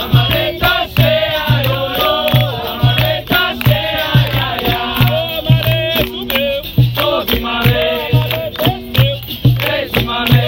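Capoeira roda music: a group singing a chant over a steady, evenly repeating rhythm of low drum-like notes and sharp percussive strikes.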